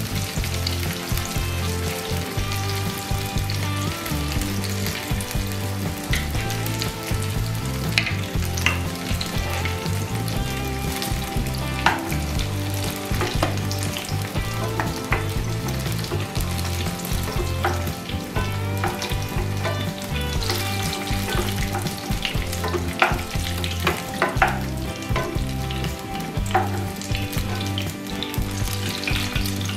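Eggplant pieces sizzling steadily as they fry in hot oil in a non-stick wok, with scattered sharp clicks of a wooden spatula against the pan as the pieces are lifted out.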